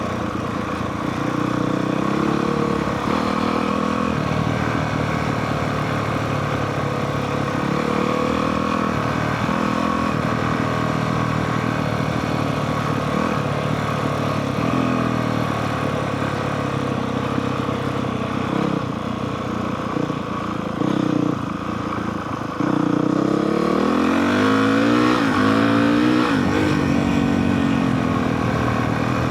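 Honda CRF450R dirt bike's single-cylinder four-stroke engine running while ridden, its pitch stepping up and down with throttle and gear changes. About 23 seconds in it gets louder and revs in rising and falling sweeps.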